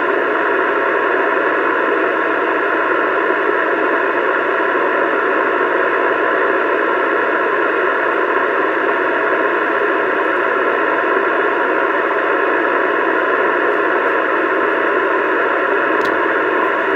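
CB radio speaker hissing with steady static throughout, the narrow, band-limited rush of an open receiver. The static cuts off suddenly near the end.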